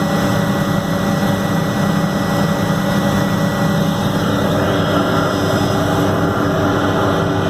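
Helicopter's engine and rotor running with a loud, steady drone.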